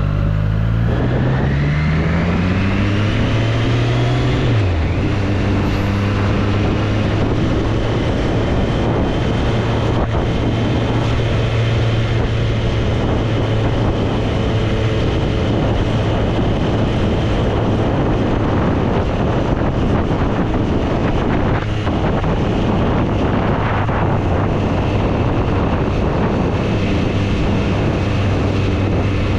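Triumph Street Triple's inline three-cylinder engine pulling in gear, its pitch rising for about four seconds, then dropping sharply and holding steady at a cruise. Wind rushes over the microphone throughout.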